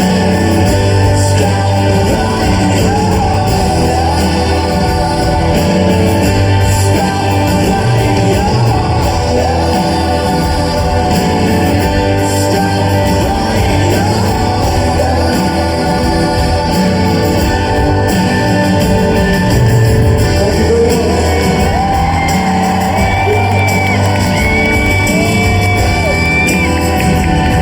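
Live rock band playing a song with sung vocals, heard in a large concert hall with some shouting from the crowd.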